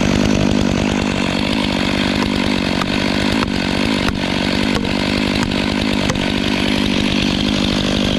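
Gas chainsaw running at full throttle at a steady pitch, making a felling cut through a dead tree's trunk.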